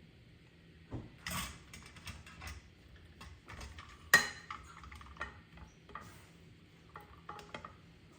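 Dishes and utensils clinking and clattering as they are handled, a run of irregular knocks with one sharp ringing clink about four seconds in.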